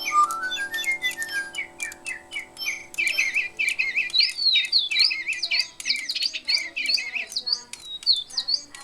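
Birdsong: a whistled note sliding upward at the start, then fast, repeated chirping trills, and from about four seconds in, a run of quick, higher falling whistles repeated over and over.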